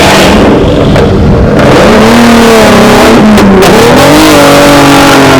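A car engine revving hard as it pulls away: the pitch climbs, drops briefly about three and a half seconds in, then climbs again and holds.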